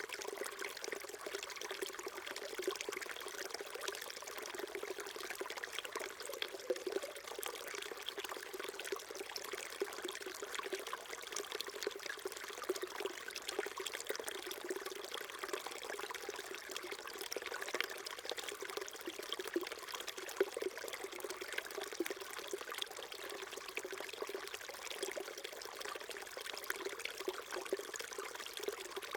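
Small mountain stream trickling and babbling over rocks, a steady splashing flow with constant fine gurgles.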